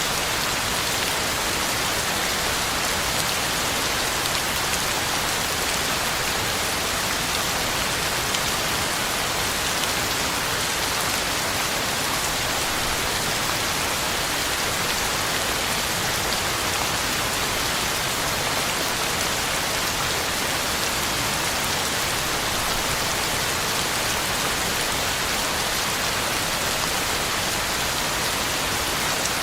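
Heavy rain falling steadily, an even hiss of drops pattering on the ground and leaves, with no thunder.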